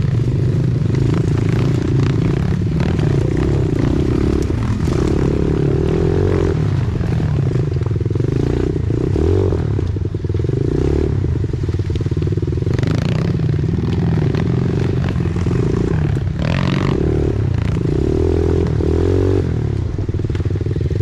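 Pit bike engine running under way, its pitch rising and falling as the throttle opens and closes, with frequent knocks and rattles over the trail.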